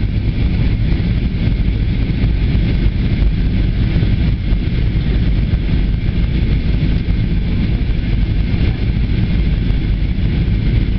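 Steady in-flight cabin noise of an Airbus A320: a loud, even low rumble of engines and airflow.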